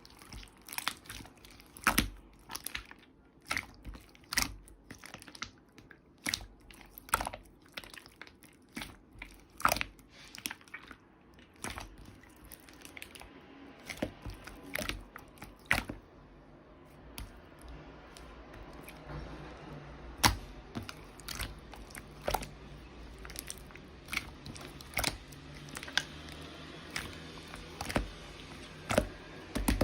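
Slime being squeezed and pressed by hand, giving irregular sharp clicks and pops.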